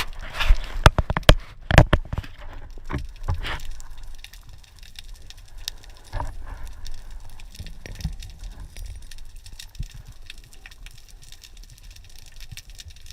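Underwater sound picked up by a camera in its waterproof housing: a flurry of clicks and knocks in the first few seconds, then a fainter, steady crackle of scattered clicks over a low rumble of water.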